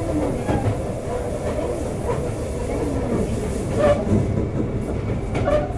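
Running noise inside a Sotetsu 9000-series electric train car: a steady rumble, with wheels clicking sharply over rail joints a couple of times in the second half.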